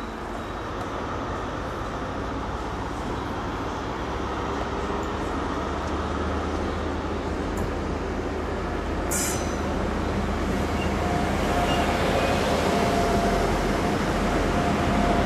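A train running through the station, a steady low rumble that grows louder as it comes closer. A short, sharp high squeak about nine seconds in, then thin high tones over the rumble near the end.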